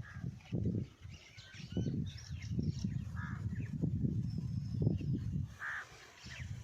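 Birds calling and chirping outdoors, with a few louder caws, over an uneven low rumble.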